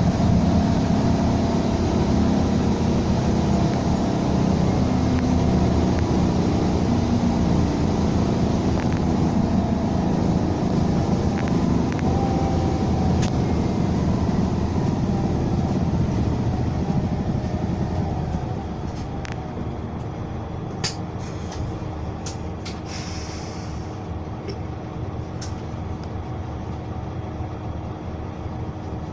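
Scania K320 bus's 9.3-litre DC9 five-cylinder diesel running under way with road noise; about 18 seconds in it drops to a quieter level as the bus eases off, followed by a few sharp clicks and a short hiss.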